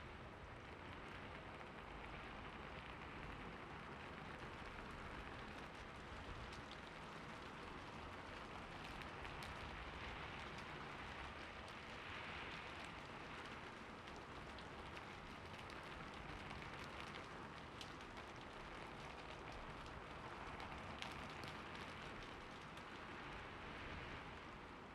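Steady rain falling, with a dense patter of fine drops hitting a surface and the rush of the rain gently swelling and easing every few seconds.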